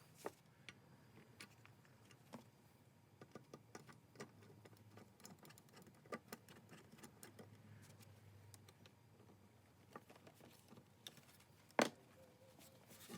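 Faint, scattered clicks and taps of the metal parts of a Stanley Bailey No. 5 jack plane being handled during reassembly, with one sharper click near the end.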